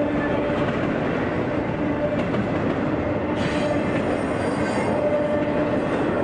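Florida East Coast Railway freight train's double-stack container cars rolling past close by, with a steady rumble of wheels on rail. A faint squeal of the wheels comes and goes.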